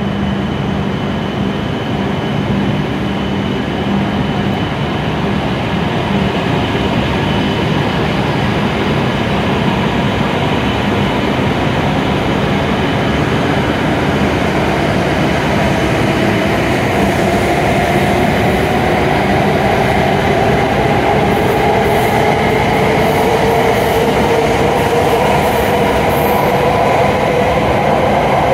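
W7 series Shinkansen trainset pulling out of the station and gathering speed: a steady rumble, with a whine that rises slowly in pitch from about halfway through as it accelerates.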